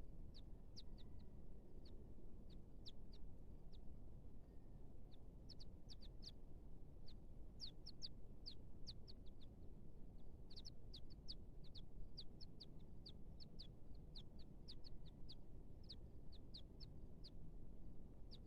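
Baby birds peeping: many short, high chirps, each dropping slightly in pitch, coming in quick irregular runs and busiest in the second half, over a steady low rumble.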